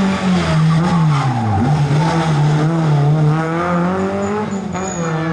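Rally car engine running hard on a special stage, its revs dropping sharply about a second and a half in and then climbing and holding high again.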